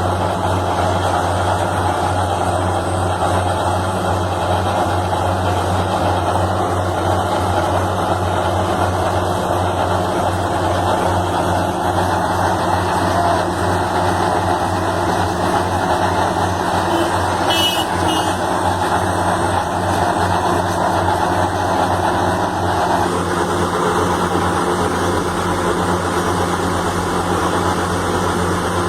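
Heavy diesel construction machinery running steadily with a low, even engine drone. There is a brief click about two-thirds of the way through.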